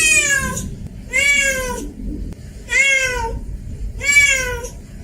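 Domestic cat meowing repeatedly, about one meow every second and a half, each call rising then falling in pitch.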